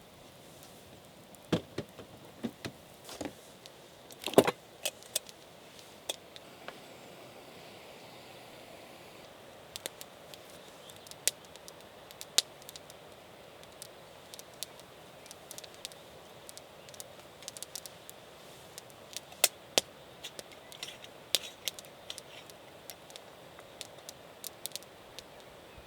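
Irregular sharp clicks, clinks and knocks over a faint steady hiss, with the loudest knock about four seconds in and a cluster around twenty seconds.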